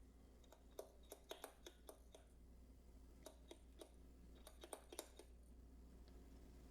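Near silence with faint, irregular small clicks and taps from hands handling tools and small items on a workbench.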